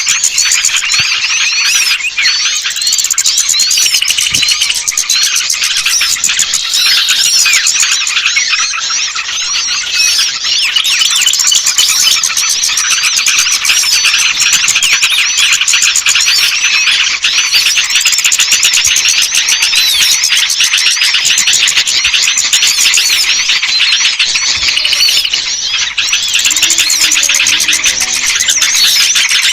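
Bird-lure recording of many small songbirds chirping and twittering together: a dense, unbroken chorus of rapid, high, overlapping calls.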